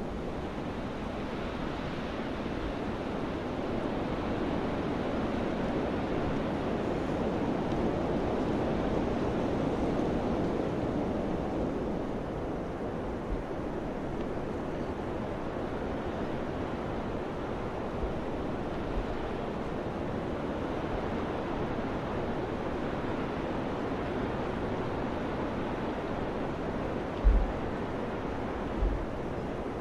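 Steady wind blowing, swelling to a peak about ten seconds in and then easing off, with two brief low thumps near the end.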